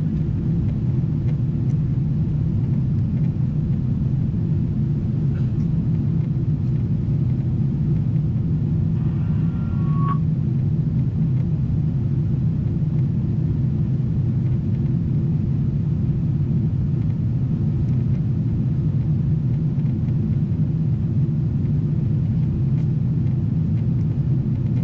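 Boeing 777-300ER cabin in flight: the steady low rumble of the engines and airflow heard from an economy seat.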